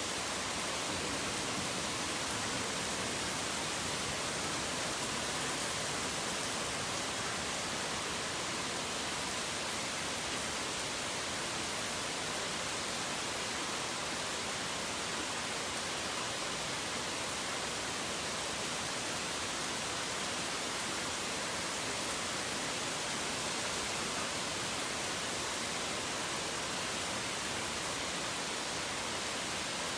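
Steady rain, an even hiss with no separate drops, thunder or birdsong standing out.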